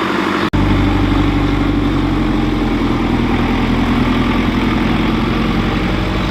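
Tractor engine running steadily with a deep, even note. The sound cuts out for an instant about half a second in, then comes back.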